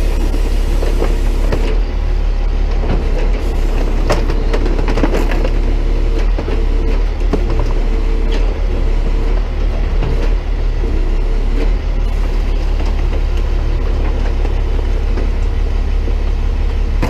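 Tow truck's engine running steadily while a home-made crusher attachment compacts trash in a trash can, with scattered cracks and crunches as the trash gives way.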